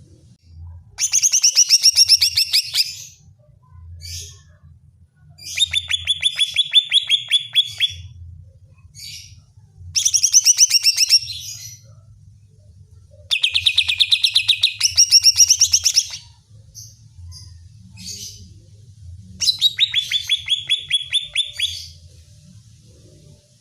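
Greater green leafbird (cucak ijo) singing its agitated challenge song: five loud phrases of rapid trilled notes, each about two to three seconds long, with pauses of a few seconds between them.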